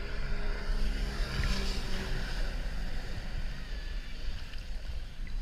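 Sea-Doo Wake 215 jetski engine running at a steady note, fading away after about two seconds, with wind noise on the microphone.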